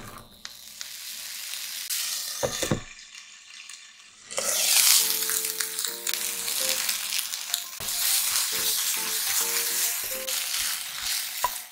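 Strips of red and yellow bell pepper sizzling in hot olive oil in a nonstick frying pan as they are tipped in and stirred with a spatula. The sizzle becomes much louder about four seconds in.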